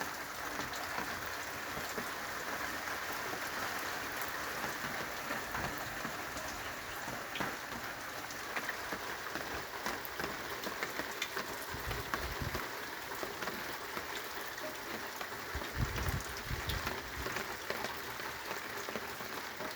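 Steady rain falling, an even hiss dotted with many small drop ticks, with two brief low rumbles about twelve and sixteen seconds in.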